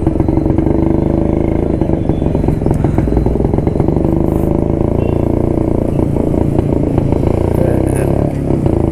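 1972 Jawa two-stroke motorcycle engine running steadily under way, with a short dip in level near the end.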